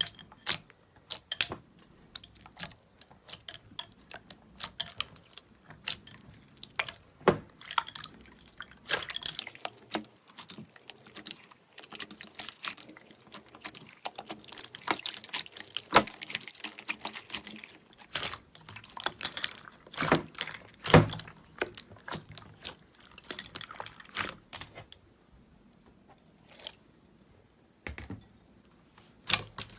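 Slime being squeezed and poked by hand: irregular sticky clicks, pops and crackles, thickest through the middle and thinning out near the end.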